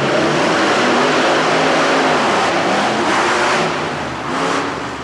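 Monster truck engines running at high revs, the pitch rising and falling as the throttle is worked. The sound drops away about four seconds in, with one short swell of revving near the end.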